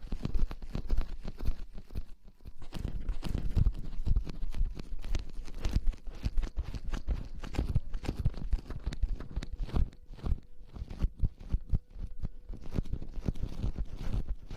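Close-miked ASMR rustling: a dense run of irregular crackles with soft low thumps, never settling into a rhythm.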